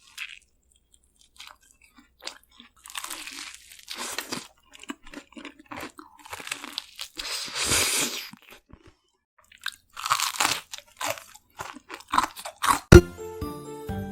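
Loud crunching bites and chewing of crispy BHC Bburinkle fried chicken, in irregular crunches with short pauses. Near the end a sharp click, then music starts.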